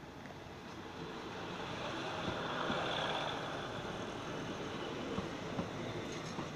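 A State Railway of Thailand diesel railcar train pulling in along the track, its engine and wheels rumbling louder over the first few seconds as the front and carriages pass close by. A few short clicks of the wheels on the rails come near the end.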